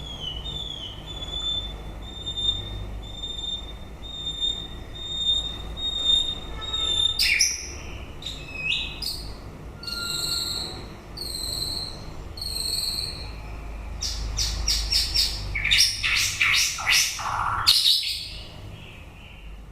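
White-rumped shama singing: a steady series of short, even whistled notes, then from about seven seconds in a varied phrase of sharp whistles and rasping notes, turning into a fast run of harsh notes near the end.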